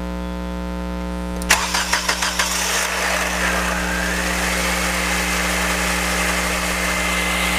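A 1997 Nissan Sentra's 1.6 L four-cylinder engine cranking about a second and a half in, catching, and settling into a steady idle. It makes a little clatter right at the start, from the upper timing chain, until the new tensioner fills with oil and takes up the chain. After that it runs quietly.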